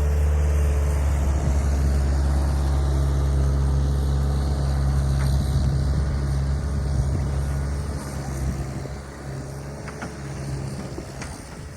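A heavy engine running steadily with a low hum, which fades and drops away about eight seconds in.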